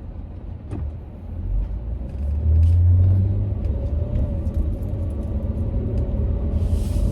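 Car rumbling, heard from inside the cabin, with a louder low swell about two and a half seconds in and a faint steady hum coming in after it.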